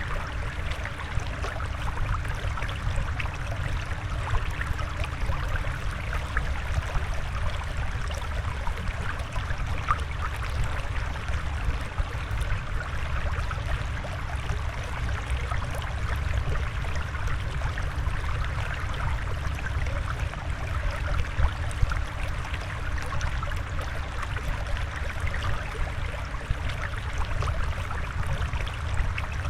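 Flowing, trickling water running steadily, with no piano heard.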